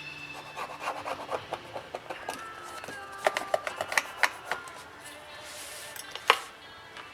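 Rubbing and scraping with irregular light clicks and taps from hand work on a tablet's frame during a repair. One sharp click comes about six seconds in.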